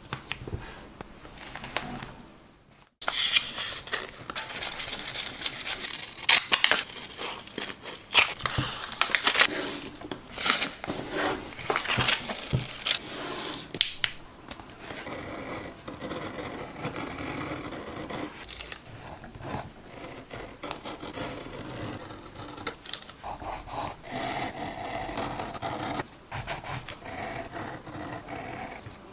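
Scissors snipping through washi tape in quick, crisp cuts, giving way about halfway through to softer, steadier rubbing and scraping on paper.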